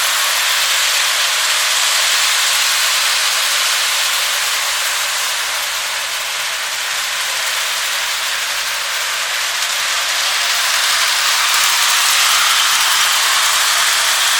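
Lionel O scale toy train running on its track: a steady rushing hiss of wheels and motor, easing a little about midway and growing again.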